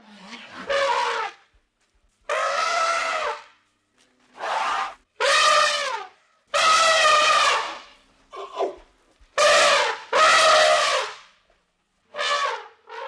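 An animal calling over and over: about nine loud pitched cries in a row, each up to about a second long, with short gaps between them.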